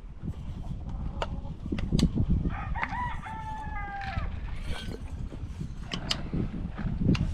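A rooster crows once, about three seconds in: a cock-a-doodle-doo of a few short notes and then a long held note that falls away at the end. Scattered sharp knocks and a low rumble run under it.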